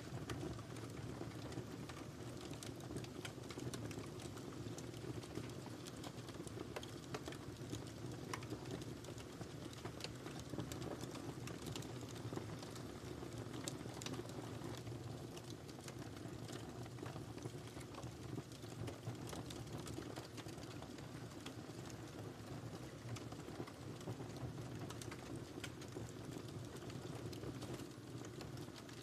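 Wood fire burning in a fireplace: a steady low rush of flames with many small, irregular crackles and pops.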